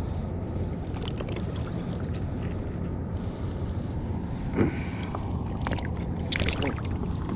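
Steady low engine drone throughout, with a single sharp knock about four and a half seconds in and a brief scraping, splashy rush a couple of seconds later.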